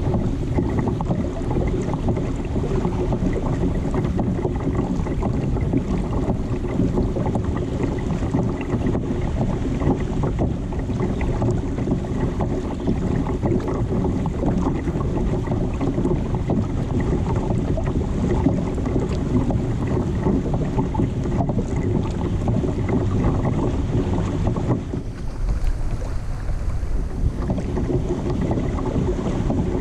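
Steady wind rumbling on the microphone, with water noise from a kayak out on the sea. The wind eases briefly about 25 seconds in.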